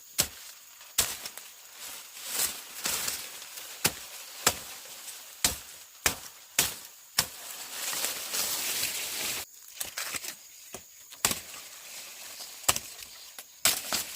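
A blade chopping: sharp blows at irregular intervals, roughly one a second, with a stretch of rustling noise about eight seconds in.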